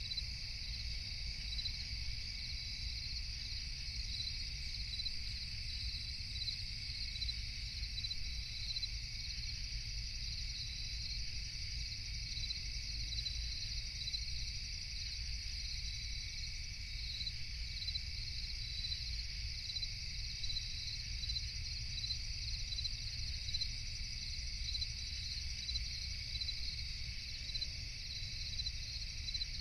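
A steady night chorus of insects: a continuous high trill with a chirp repeating evenly over it, and a low steady rumble underneath.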